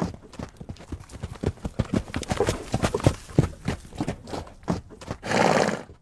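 Horse hooves clip-clopping in an uneven run of knocks, then a short, loud horse vocalisation near the end.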